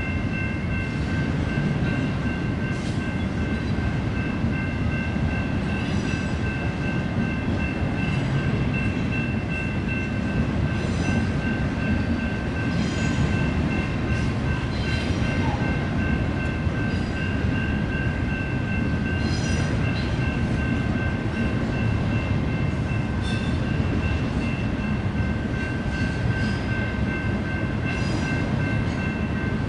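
BNSF intermodal freight train's cars rolling past, a steady low rumble of wheels on rail. Three steady high-pitched tones run throughout, and short high squeaks come every second or two.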